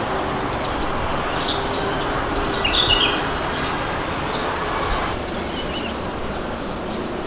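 Steady wind blowing, with birds giving a few short chirps over it; the clearest chirp comes about three seconds in.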